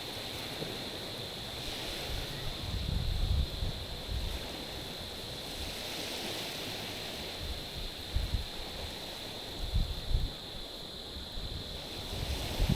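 Small waves washing against a stony shore, the wash swelling a couple of times, with short low wind buffets on the microphone later on.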